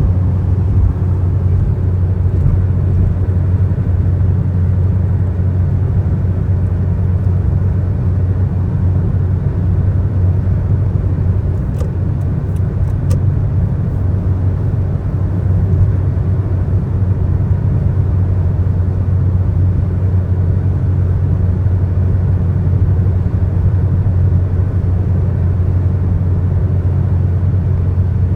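Steady low rumble of a car driving at highway speed, with a few faint ticks about twelve seconds in.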